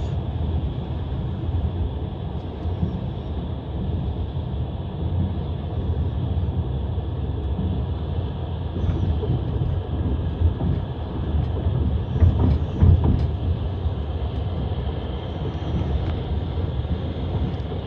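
Passenger train running: wheels rumbling and clacking on the rails, heard from inside the carriage, a little louder about twelve seconds in.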